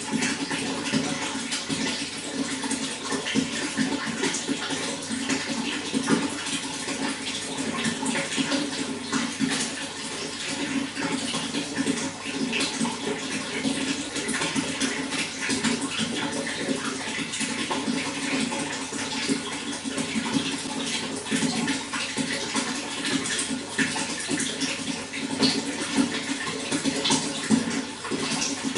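Water running and splashing steadily, with a constant rush and many small splashes.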